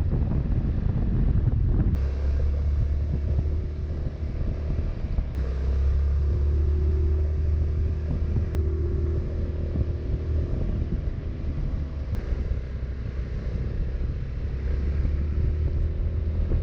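Honda ADV350 scooter's single-cylinder engine running steadily while riding, with a low wind rumble on the microphone.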